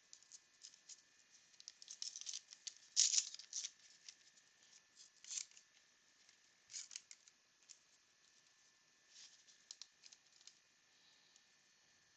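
A baseball card pack being opened and handled: short, faint crackles and rustles of the wrapper tearing and crinkling, the loudest about three seconds in.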